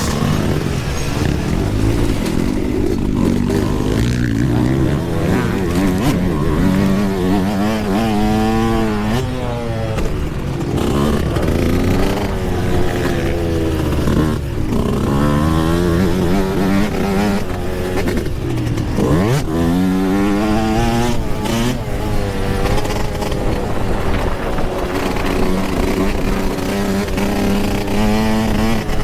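Yamaha YZ125 two-stroke dirt bike engine being ridden hard, its pitch climbing and falling again and again with throttle and gear changes, with one sharp drop and climb a little past halfway.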